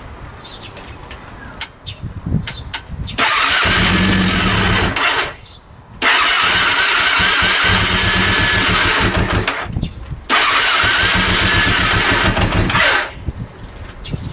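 Honda CB400 four-cylinder engine being cranked on its electric starter in three bursts of a few seconds each, each starting abruptly and stopping again.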